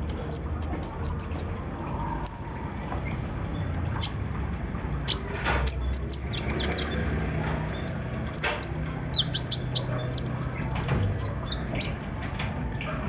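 Sunbirds calling in short, sharp, high chirps, some single and some in quick runs of rapid notes, the runs coming thickest in the latter half.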